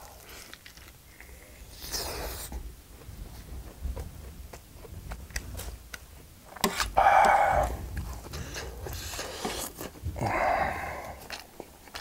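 Close-miked chewing of a large bite of seared whole-block Spam: wet mouth clicks and smacks, with a few loud breaths through the full mouth about a second and a half in, around seven seconds in, and again near the end.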